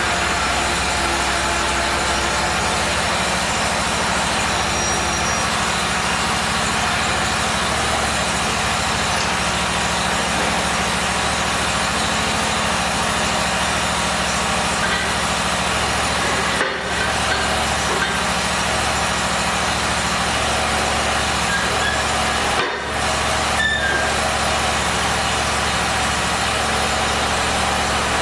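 A steady, loud machine drone like an engine running, with a low hum. It breaks off briefly twice, once about two-thirds of the way through and again a few seconds later.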